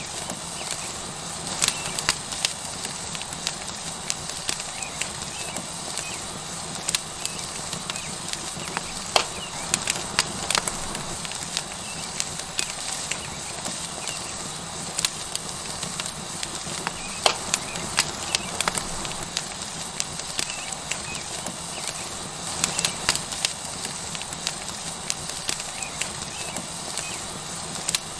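Tomahawk steak sizzling in a steady hiss on a hot rock over a wood fire, with the fire crackling in sharp, irregular pops throughout.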